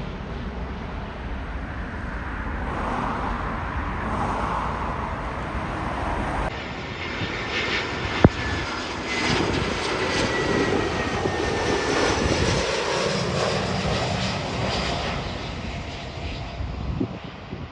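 Jet airliner's engines running as it passes, a steady rushing roar with wind buffeting the microphone. A single sharp click about eight seconds in, and a faint falling whine after it.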